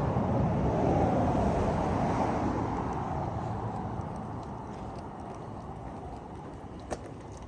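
Vehicle noise, loudest about a second in and fading away steadily over several seconds, with a single sharp click near the end.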